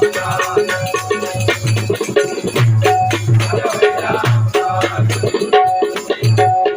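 Bhajan instrumental accompaniment: a pakhawaj drum beating a quick rhythm of low strokes, small hand cymbals jingling on the beat, and a harmonium holding steady notes.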